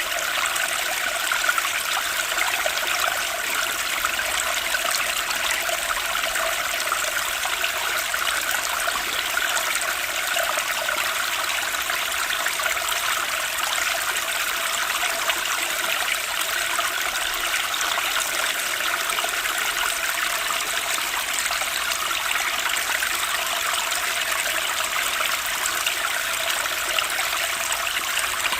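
Water of a stream flowing and trickling steadily, an even rushing hiss without pauses.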